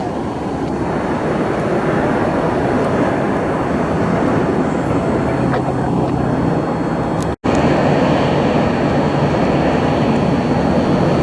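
Jet aircraft engine noise: a loud, steady rush that cuts out for an instant about seven seconds in and resumes with a faint high whine added.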